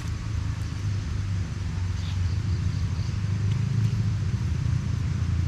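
A steady low rumble with a few faint, brief high chirps.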